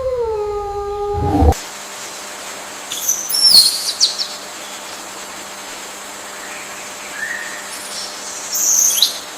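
An animal's long, pitched howl glides up and down and cuts off about a second and a half in. It gives way to a steady hiss with birds chirping over it: a burst of high, falling chirps about three seconds in, and a few single chirps later.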